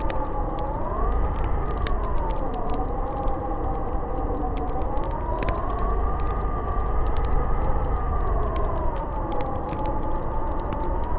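Snowstorm wind howling, its whistling pitch slowly rising and falling over a deep, steady rumble, with scattered sharp ticks throughout.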